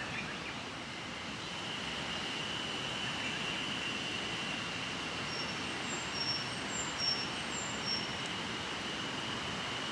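Steady rushing of a flowing river, with a few short high-pitched chirps between about five and eight seconds in.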